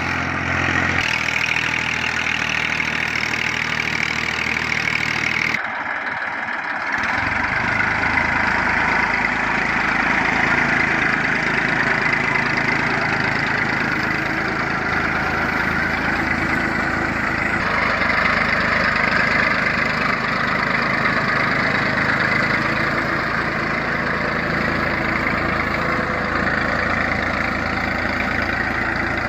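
Tractor engine running steadily, its sound changing abruptly a few times.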